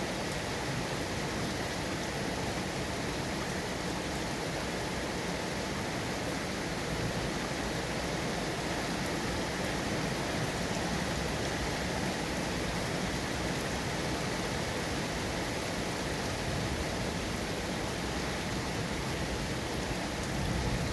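Steady rainfall, an even hiss of many drops with no thunder or distinct drips.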